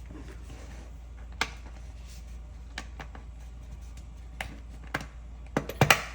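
Plastic Lego pieces clicking and tapping as they are handled and pressed together. A few single clicks come first, then a quick run of louder clicks near the end.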